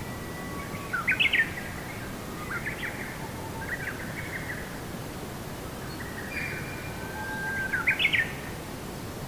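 A bird singing two phrases, each of held whistled notes followed by quick rising chirps, about a second in and again near the end, over a steady hiss.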